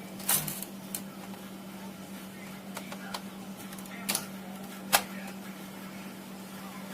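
A few sharp clicks and knocks, two close together at the start and two more around four and five seconds in, over a steady low hum.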